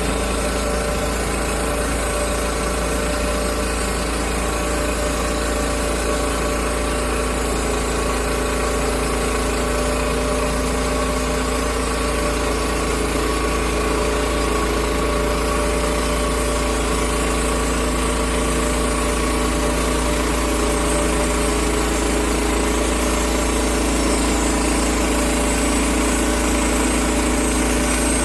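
Engine of a portable sawmill running steadily without a break, growing slightly louder toward the end.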